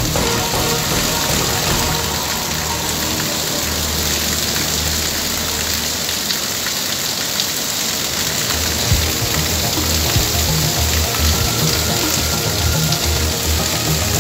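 Heavy downpour: a dense, steady hiss of rain pelting the pavement and floodwater, with low rumbling in the second half.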